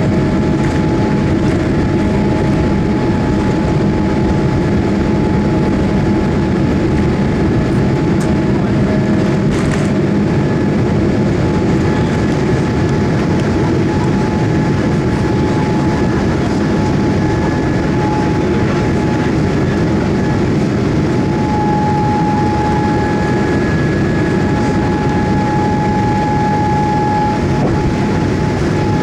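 Boeing 787 Dreamliner engine and airflow noise heard inside the passenger cabin near the wing: a loud, steady rumble with a few steady whining tones running through it.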